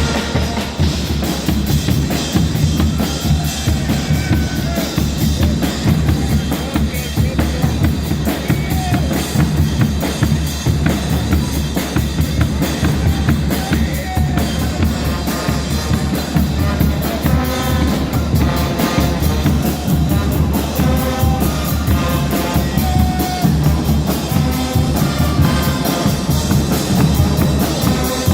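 Guggenmusik band playing loudly: heavy drumming on bass drum and snare, with brass tones coming through more strongly in the second half.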